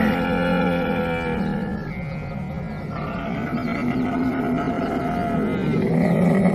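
Camel bellowing in long, continuous, groaning calls. The calls ease a little about two seconds in and swell again near the end.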